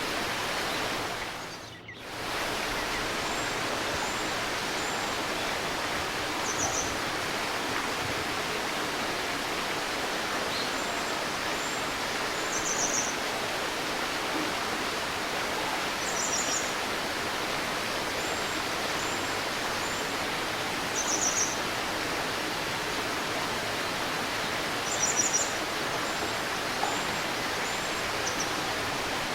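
River water babbling steadily, with birds chirping and calling over it in short high phrases every few seconds. The water sound briefly dips and swells back about two seconds in.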